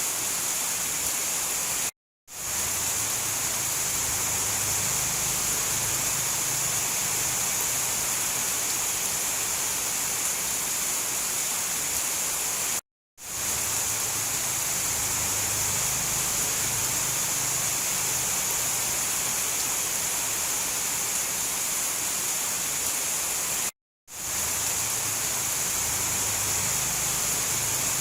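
Steady heavy rainfall, a dense unbroken hiss. It is cut by three brief silent gaps about eleven seconds apart.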